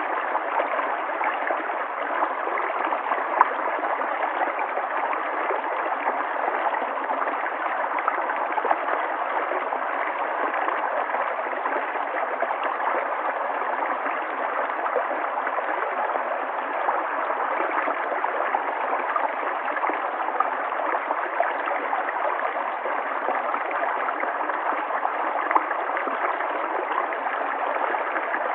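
River water flowing and gurgling in a steady, even rush, with small splashes here and there.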